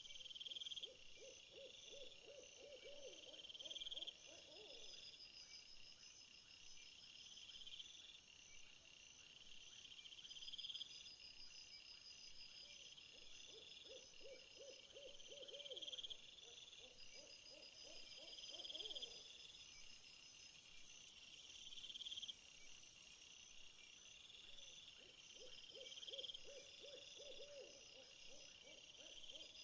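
Faint night chorus of crickets chirping in steady repeated pulses, with a low trilling owl-like hoot three times, roughly every twelve seconds. A higher insect buzz joins for several seconds in the middle.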